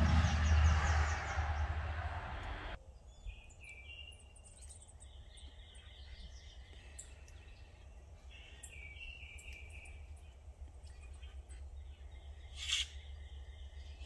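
A vehicle passing on the road for the first few seconds, cutting off abruptly; then purple martins chirping in runs of short calls, with one short, louder sound near the end.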